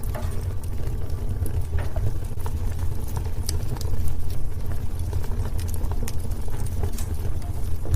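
Wood fire burning in a fireplace: irregular sharp crackles and pops scattered over a steady low rumble.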